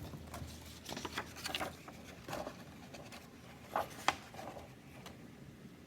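Faint rustles and a few soft taps from handling the paper pages of a picture book, the sharpest tap about four seconds in.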